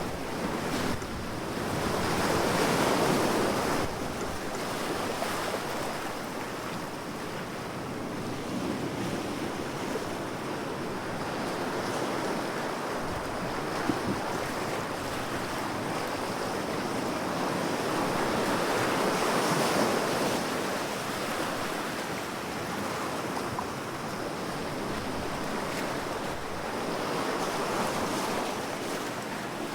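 Ocean waves washing onto the shore: a continuous rushing surf that swells with each wave, peaking about three seconds in, again around twenty seconds, and near the end.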